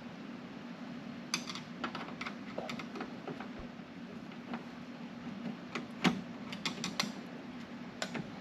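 Scattered light metallic clicks and ticks of a screwdriver and mirror mounting hardware as a car door mirror is screwed down, the sharpest about six seconds in, over a steady low hum.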